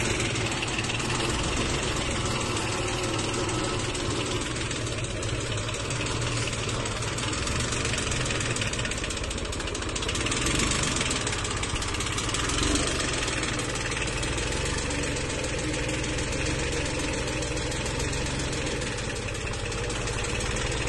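VST Shakti MT 224-1D mini tractor's diesel engine running steadily.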